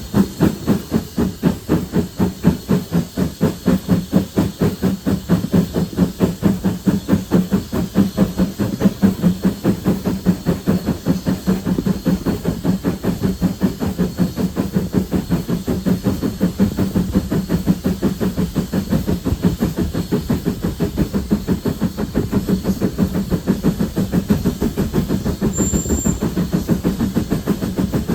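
Steam locomotive working under steam, its exhaust beating in a steady rapid rhythm of about four to five beats a second with a hiss of steam.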